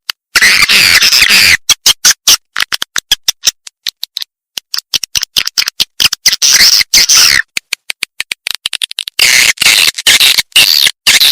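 Swiftlet call recording: rapid chattering chirps and clicks of swiftlets, the lure call used to draw swiftlets to a nesting house. It comes in dense bursts that break off into abrupt silences.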